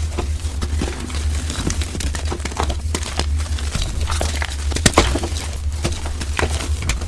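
Gym chalk being crushed and crumbled at double speed: a dense, irregular run of crunches and crackles, with one sharper crunch about two-thirds of the way through, over a steady low hum.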